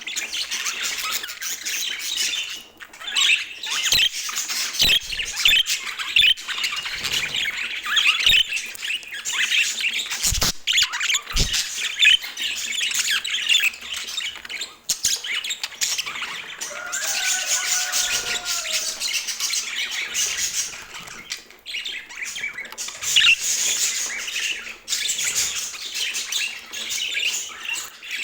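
Budgerigars chattering, with rapid chirps and squawks that run on without a break. Two low knocks come about ten and eleven seconds in.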